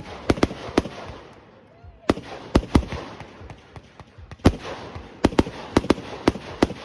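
Fireworks display: aerial shells bursting in many sharp bangs at an irregular pace, coming thick and fast in the second half.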